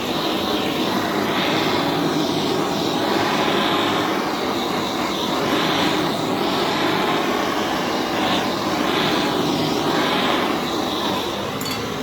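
Heat gun running steadily, blowing hot air over a freshly sealed tractor radiator to cure the sealant quickly. It runs loud and even, then switches off abruptly at the end.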